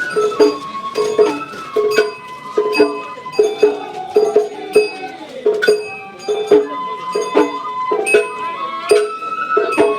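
Sawara-bayashi festival music: a bamboo flute playing over steady drum beats and the ringing clang of a small hand gong, about two strikes a second.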